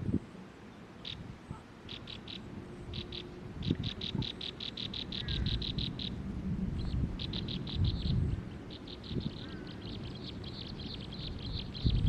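A bird calling in quick runs of short, high chirps, about seven a second, which run together into a nearly unbroken chatter near the end. Low rumbling noise comes and goes beneath it.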